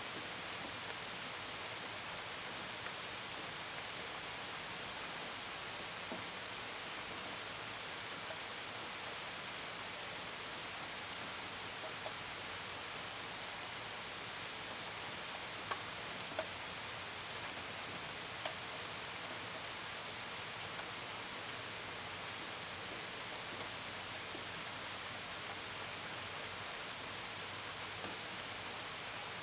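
Steady rain falling, with scattered sharper drops tapping on a window and gutters. Crickets chirp faintly in an even, repeating pulse behind it.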